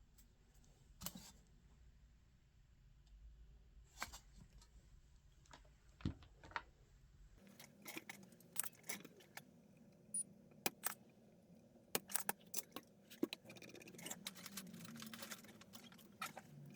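Small tools and parts handled on a workbench: scattered sharp clicks and light metallic clatter, sparse at first and more frequent in the second half.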